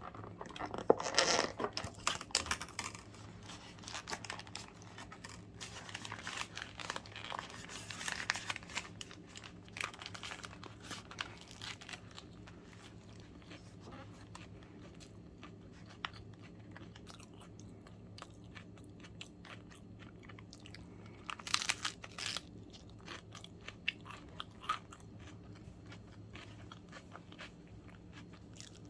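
Close-miked eating of a sandwich: crunchy bites about a second in and again around twenty-two seconds, with wet chewing in between that grows fainter later on. A faint steady low hum lies underneath.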